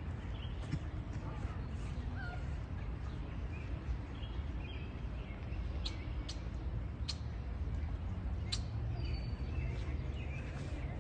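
Scattered short bird chirps and peeps over a steady low outdoor rumble, with a few sharp, high chirps in the second half.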